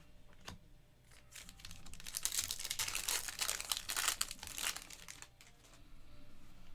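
Plastic foil wrapper of a trading card pack crinkling and crumpling in the hands for about three and a half seconds, loudest in the middle, with a few small ticks around it.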